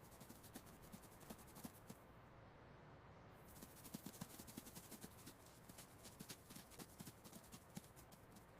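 Faint, quick, irregular clicking and scratching of a mouse's small feet scurrying, growing busier about halfway through.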